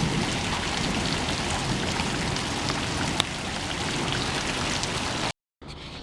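Steady rain falling, with scattered drops ticking on surfaces. It cuts off abruptly about five seconds in.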